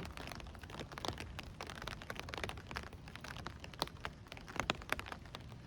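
Rain falling, with scattered drops ticking irregularly on nearby surfaces over a low, steady rumble.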